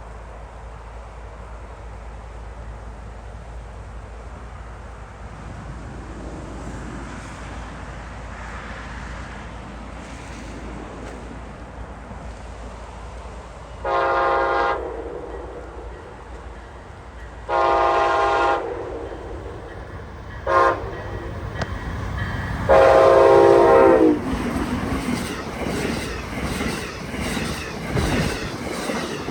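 Amtrak Silver Meteor's locomotive air horn blowing the grade-crossing signal: long, long, short, long, starting about halfway through. Then the train passes with its wheels clicking over the rail joints.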